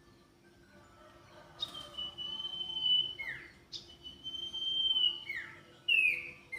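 A songbird kept as an Indonesian 'sirtu' bird, singing in full voice: long clear whistled notes held level, broken by quick falling slurred notes, starting about a second and a half in.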